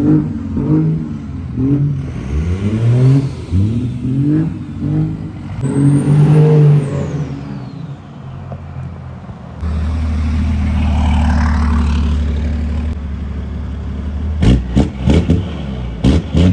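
Cummins 12-valve diesel engine revved repeatedly, its pitch rising and falling with each blip, then held at a steady speed for a few seconds. Near the end it gives way to a rapid run of sharp pops.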